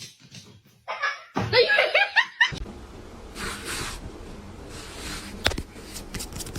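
A person laughing for about a second and a half, followed by softer rustling noise and a few sharp clicks near the end.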